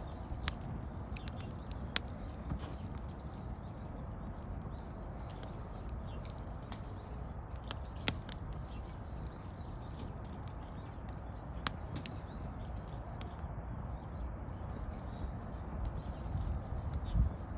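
Wood fire burning with a steady low rush, crackling with scattered sharp pops of the burning wood, and a few heavier knocks near the end.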